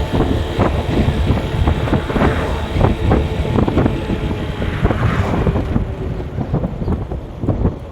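A vehicle on the move, with wind on the microphone, a steady low rumble and frequent short knocks and rattles. It gets a little quieter near the end.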